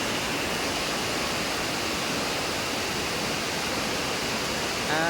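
Heavy rain falling steadily, an even hiss. A voice says "ah" near the end.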